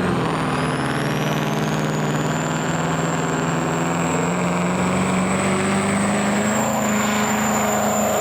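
A pulling vehicle's engine running hard and steady, with a high whine that climbs over the first couple of seconds and then holds.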